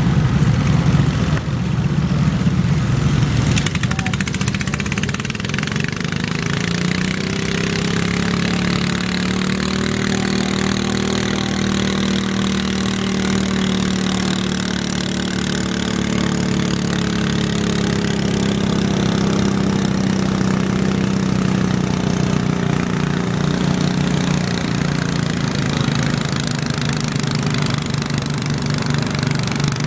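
Garden tractor engine running, revving up a few seconds in and held at higher speed for a long stretch, then easing back down near the end.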